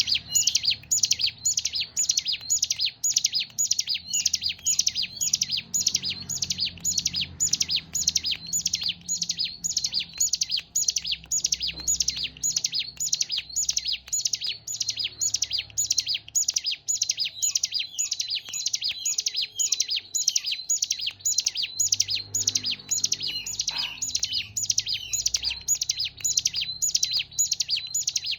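Ciblek gunung, a prinia, singing a rapid, unbroken series of sharp high chirping notes, about three to four a second, evenly repeated throughout.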